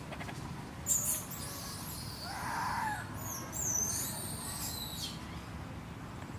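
High-pitched animal squeaks gliding up and down, from about one second in until about five seconds in, with a lower call that rises and falls about two and a half seconds in.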